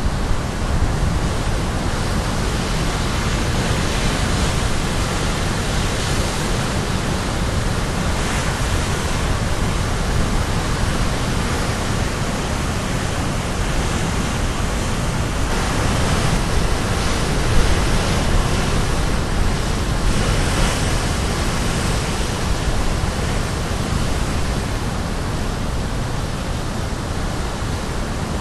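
Caribbean Sea waves crashing on the shore: a continuous rushing surf that swells every few seconds as waves break.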